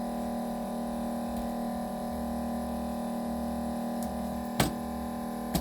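Steady electrical hum, with two sharp clicks about a second apart near the end.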